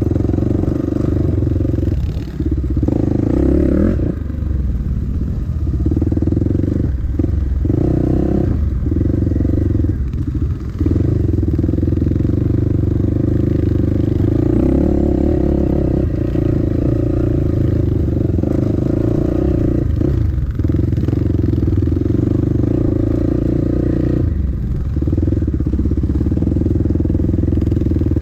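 Dirt bike engine running at a steady, loud throttle while riding a trail, with brief dips in engine note every few seconds as the throttle is backed off or a gear is shifted.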